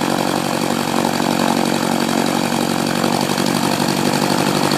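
1967 Cessna 150's Continental O-200 four-cylinder engine running with the propeller turning, slowly growing a little louder, as the engine is brought up for a run-up.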